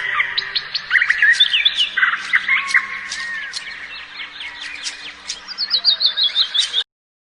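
Several birds chirping and whistling together in a forest birdsong sound effect, with quick rising and falling notes and a run of rapid descending chirps near the end. It cuts off suddenly about a second before the end.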